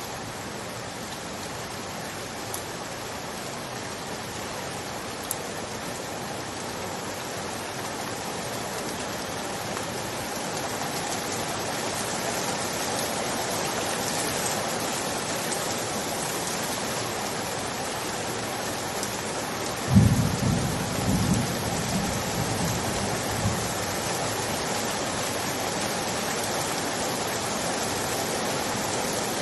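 Steady rain, growing gradually heavier. About two-thirds of the way through, a sudden low rumble of thunder breaks in and rolls off in several peaks over a few seconds.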